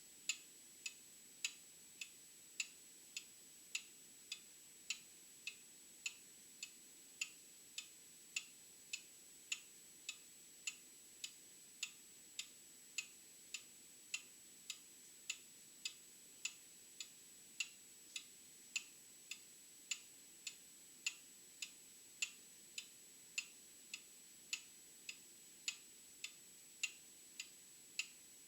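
Old clock ticking steadily, a little under two ticks a second, the ticks uneven in loudness. A faint steady high-pitched tone runs underneath.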